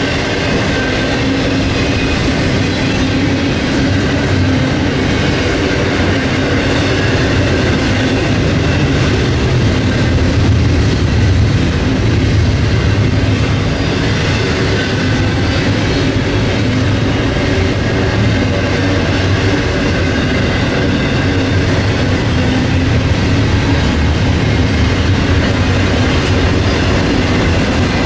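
Freight train rolling past: a loud, steady, continuous rumble of the cars on the rails.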